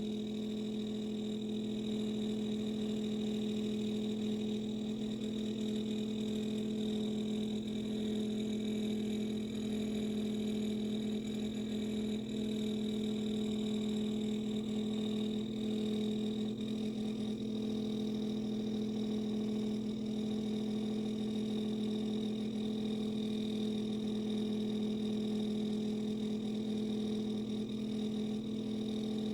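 Samsung dishwasher giving off a loud, steady droning hum with a strong low tone, unchanging throughout. It is one of the horrible noises from a machine the owner calls a lemon, a sign of a fault.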